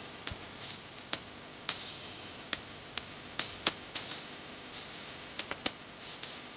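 Irregular sharp clicks and taps, about a dozen, the loudest near the middle, over soft rustling: hands working small craft materials.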